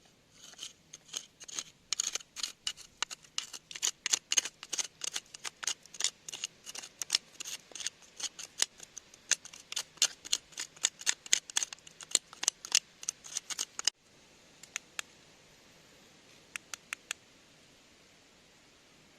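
Rapid, sharp metallic clicks and taps, about three or four a second, like a small metal hand tool chipping and picking at rock. They stop abruptly, and a few scattered clicks follow.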